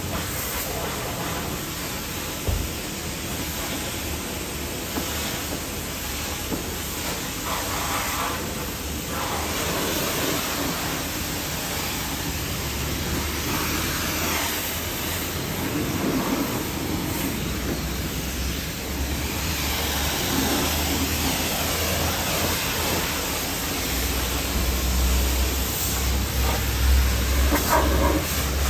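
Hose water spraying onto a truck while it is washed: a steady hiss, with a low hum underneath.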